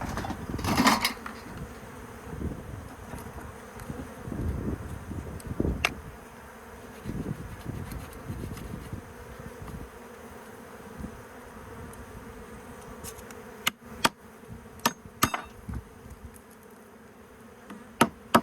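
Swarm of honeybees buzzing steadily around their hive box, with handling and rustling early on and a series of sharp clicks or knocks near the end.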